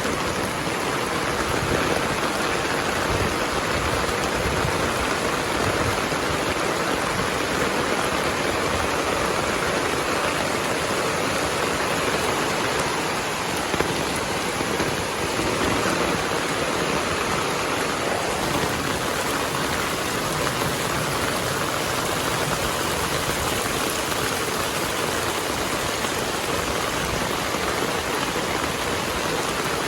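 Heavy rain falling steadily, a dense, even hiss of downpour with a brief slightly louder tick about halfway through.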